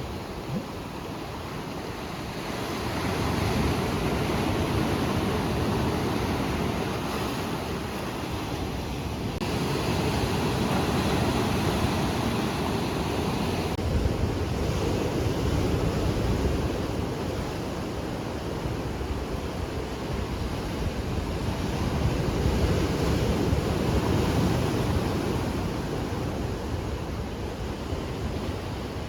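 Ocean surf breaking and washing ashore in slow swells that rise and fall every several seconds, with wind buffeting the microphone.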